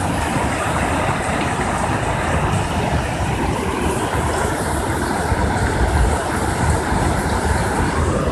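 Rushing flash-flood water: a steady, loud rush with a heavy low rumble underneath.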